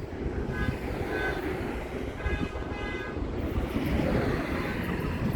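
Train rumbling on the rails, growing steadily louder, with two short spells of high-pitched tones in the first three seconds.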